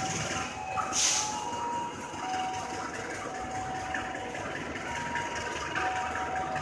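Passenger train coaches rolling slowly through a station, with a low rumble and high squealing tones from the wheels that come and go at several pitches. A short burst of hiss about a second in.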